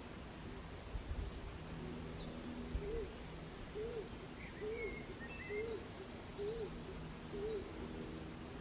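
A bird's low hooting call repeated six times, about one note a second, each note rising and falling in pitch, with a few brief high chirps from other small birds.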